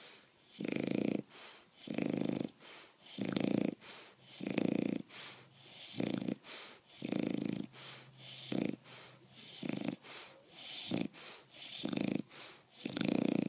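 English bulldog puppy snoring in its sleep, one snore on each breath about once a second, some long and some short.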